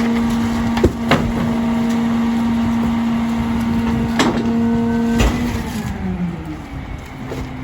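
Heil DuraPack 5000 rear-loader garbage truck's packer hydraulics running with the Mack LR engine held at raised revs, a steady whine broken by metal clanks. About five seconds in, the whine glides down in pitch and quietens as the revs fall back toward idle at the end of the packing cycle.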